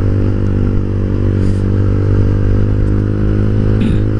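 Yamaha Vixion motorcycle's single-cylinder 150 cc four-stroke engine running at a steady pitch while cruising at constant speed.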